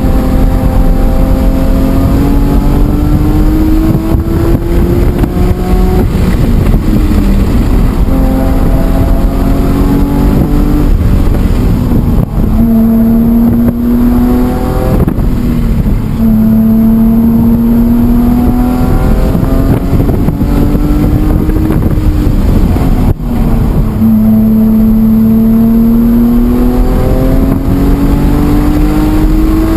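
BMW E46 M3's straight-six engine at full load on track, heard from on board. The note climbs steadily as the car accelerates and drops sharply several times, with stretches of steady pitch in between.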